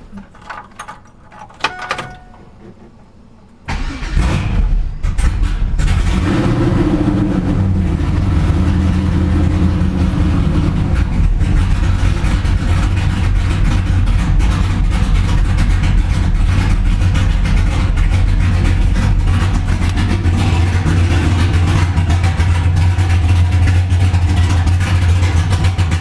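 Big-block Chevrolet V8 in a drag car starting up about four seconds in after a few light clicks, catching, and then settling into a loud, steady idle.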